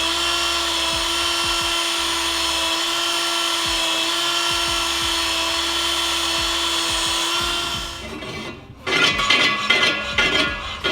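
A power tool's electric motor running at a steady pitch for about eight seconds, then stopping, followed by irregular clattering and knocks.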